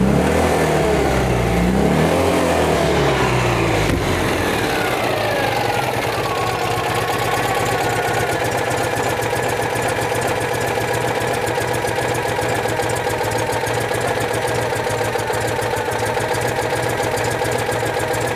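Citroën 2CV's air-cooled flat-twin engine revving up and down unevenly for the first few seconds, then dropping back and settling into a steady idle. The idle is being set, and the owner suspects a clogged idle jet.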